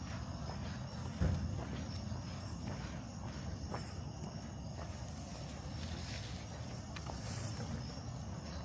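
Footsteps of a person walking a dog along a street at night, with one sharp thump about a second in.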